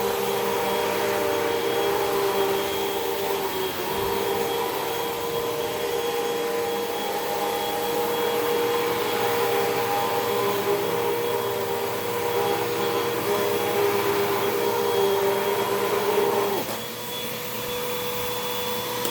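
Hoover WindTunnel 2 Rewind upright vacuum cleaner running steadily with a motor whine. About sixteen seconds in, the sound changes and drops a little.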